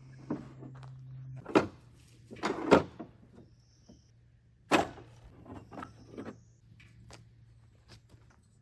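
A series of clunks and knocks as the Norwood LM30 sawmill's band blade is changed, the loudest about a second and a half in, around three seconds in, and near five seconds, over a faint steady low hum.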